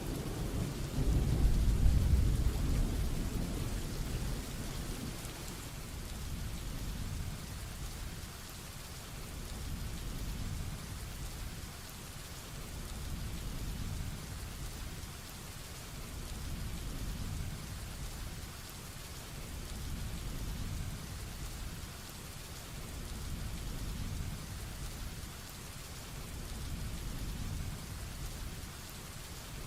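Heavy rainstorm: a roll of thunder rumbling low and fading over the first few seconds, then steady heavy rain with a soft low rumble that swells and eases every few seconds.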